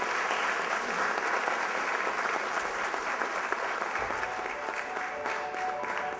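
Audience applauding, a dense steady clapping; music tones come in faintly underneath near the end.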